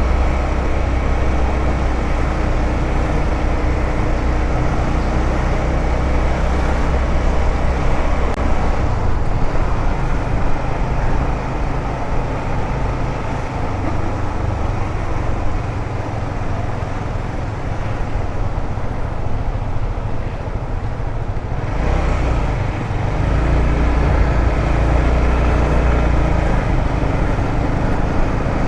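A 150cc motorcycle running on the move, with wind and road noise over the engine. The low engine note eases off for a stretch in the middle and picks up again about two-thirds of the way through.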